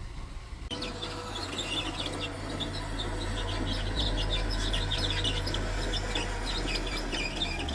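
Mitsubishi bulldozer's diesel engine running low and steady, with a dense run of short, high-pitched squeaks and chirps over it starting about a second in.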